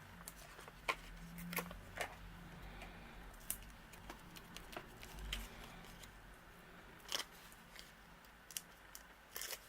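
Scattered small clicks and taps of card pieces and a sheet of foam adhesive dimensionals being handled on a desk.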